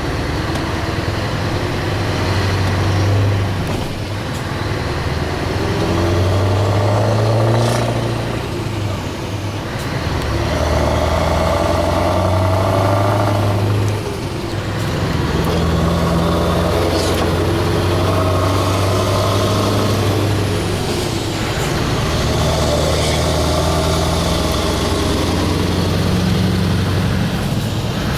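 Scania 4-series V8 truck engine running with a steady low drone. The engine note dips and changes briefly about 4, 10, 14 and 21 seconds in.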